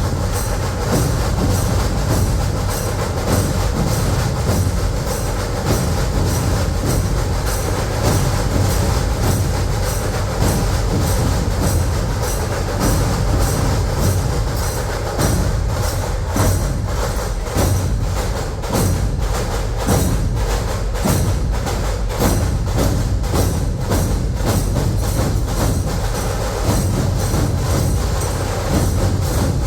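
Dhol-tasha ensemble playing: deep dhol barrel drums under rapid tasha drum strokes, a loud, fast, even rhythm.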